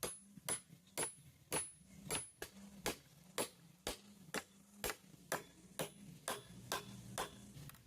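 A steady series of sharp clicks or taps, about two a second, some with a brief high metallic ring.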